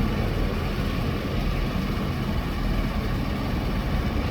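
Heavy truck engine idling with a steady low rumble.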